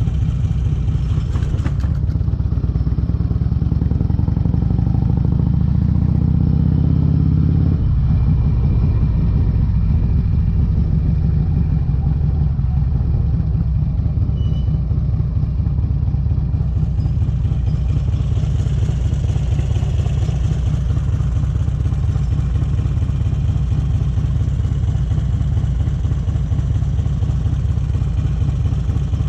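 Exhaust of a 2008 Harley-Davidson Electra Glide's V-twin through Vance & Hines pipes while riding. The pitch climbs for several seconds as it accelerates, drops suddenly about eight seconds in, and then runs steadily.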